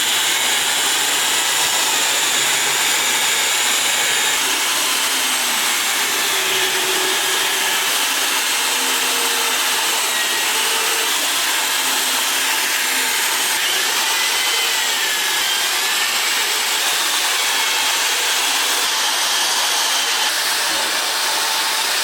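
Electric drill fitted with a paddle mixer running steadily, stirring a thick bee-fondant mix of icing sugar, honey, orange juice and water in a bucket; its motor whine wavers slightly in pitch.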